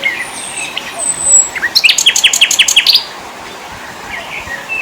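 Small forest songbirds chirping and whistling, with a fast run of about nine sharp, falling chirps, around eight a second, in the middle that is the loudest part.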